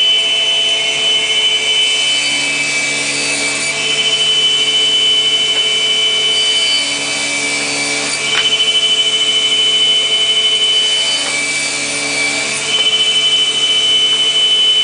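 A laminate parquet underside-grooving machine running and cutting, with a steady whine over the noise of the cutters. It gets louder for stretches of a few seconds, recurring about every four to five seconds.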